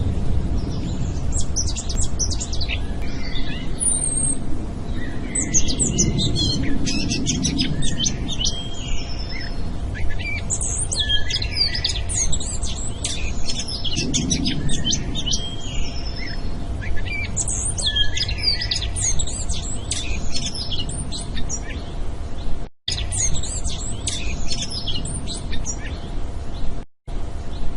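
Many small birds chirping and twittering in a dense chorus, over a steady low rumble. The sound cuts out briefly twice near the end.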